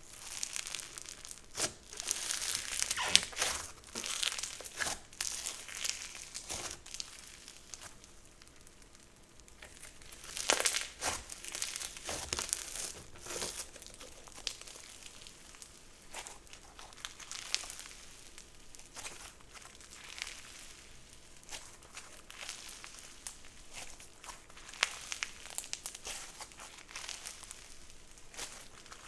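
Crunchy textured slime being squished and pressed by hand, giving off bursts of crisp crackling and crinkling pops. The crackling comes in busier spells separated by quieter stretches of scattered pops.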